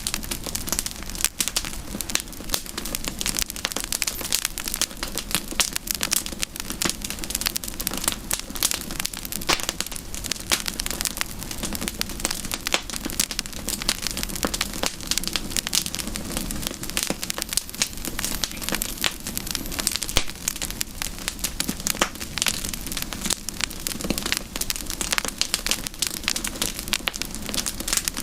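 Campfire crackling, a dense and steady stream of small snaps and pops.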